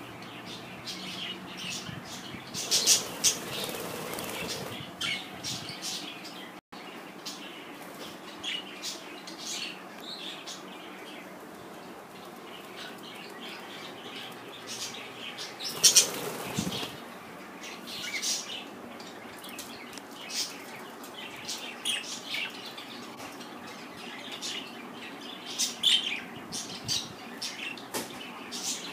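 Pet budgerigars chirping over and over in short high calls, with bursts of wing flapping, loudest around three seconds in and again around sixteen seconds in.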